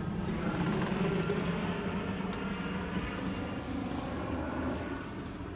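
Engine of a 1985 Toyota Pickup running steadily, heard from inside the cab, with a faint dip in pitch about three seconds in.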